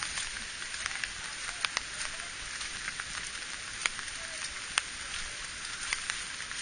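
Steady rain falling, a constant hiss with scattered sharp drops striking close by.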